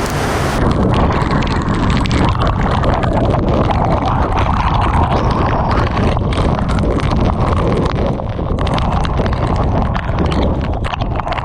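Typhoon eyewall wind buffeting the microphone in loud, uneven gusts, with torrential rain and spray lashing down.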